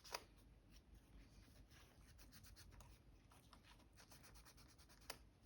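Near silence, broken by a few faint clicks of laptop keyboard keys being pressed: a sharper one just after the start and another near the end.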